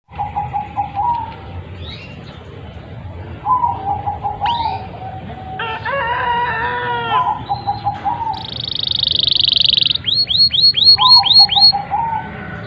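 Domestic canary singing, long continuous song: a fast, high buzzing trill held for about two seconds, then a run of about seven quick falling whistles. Through the first part lower warbling calls from other birds sound underneath.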